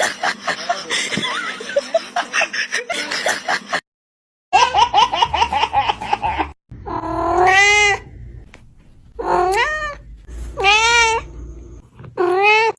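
A run of dense, scratchy chattering, then after a brief gap a quick warbling call, followed by four drawn-out meows that each rise and then fall in pitch.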